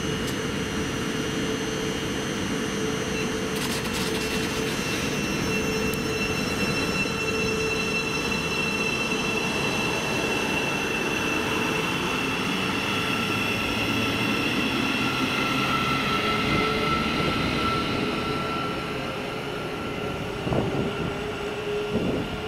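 A train running through the station: a steady rumble of running noise with several held whining tones over it, and a few short clicks about four seconds in.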